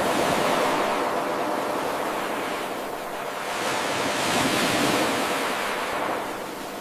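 Ocean waves washing in, a steady hiss of surf that swells twice and eases between the surges.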